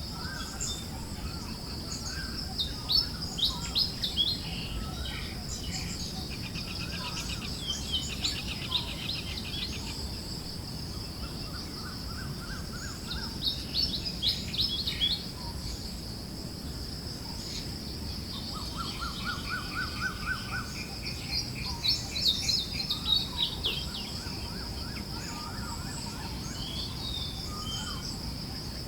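Forest birds chirping and trilling in several bouts, some of them rapid trills, over a steady high-pitched drone and a soft, noisy wind-like background.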